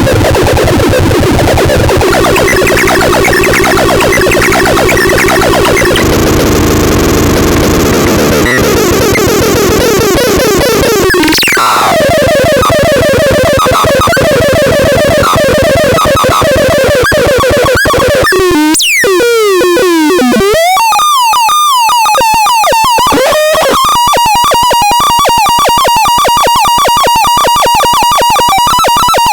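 Loud synthesized electronic sounds played back as a sound demo, a run of buzzy tones that change every few seconds. A sharp downward sweep comes about eleven seconds in, warbling up-and-down glides follow, and near the end it settles into a steady buzzy tone with a fast pulse.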